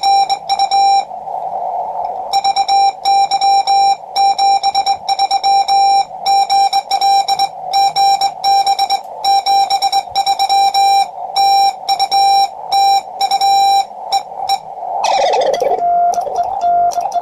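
Morse code sent on a Vibroplex bug key, heard as the QCX-20 transceiver's buzzy single-pitch sidetone keyed in quick dots and dashes. About 15 seconds in there is a short falling sweep, then a slightly lower-pitched Morse signal over band hiss.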